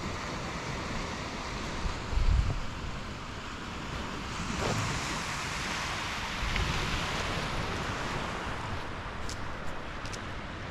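Lake waves washing steadily on the shore, the wash swelling about four seconds in, with wind buffeting the microphone, loudest about two seconds in.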